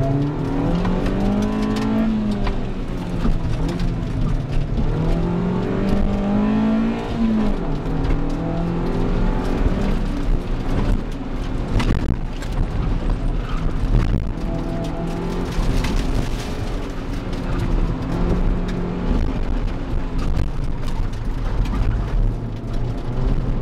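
A 1990 Honda Civic Si's four-cylinder engine heard from inside the cabin, revving up and easing off again and again as the car is driven hard through an autocross course.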